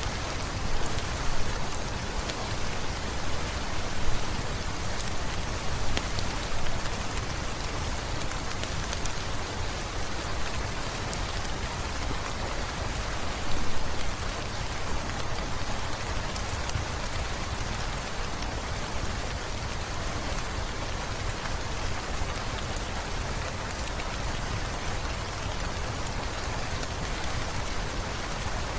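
Steady, dense rain falling on hard surfaces, with scattered tiny drop ticks and a few brief louder pops in the first half.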